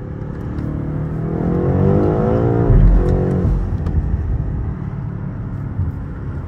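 BMW M8 Competition's twin-turbo V8 accelerating hard, heard from inside the cabin. The engine note climbs in pitch over the first three seconds. It then drops with a heavy low thump and settles into a lower, steadier run.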